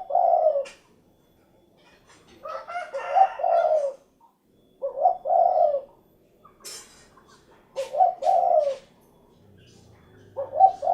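Spotted dove (derkuku) cooing: five repeated coo phrases, one every two to three seconds, each lasting about one to two seconds.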